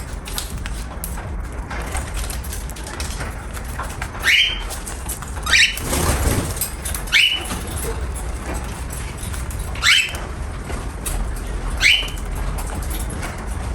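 Cockatiel giving five short chirps, each sliding upward in pitch, spaced one to three seconds apart.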